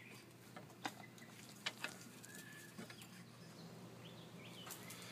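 Quiet background with a few faint light ticks and faint short bird calls near the end.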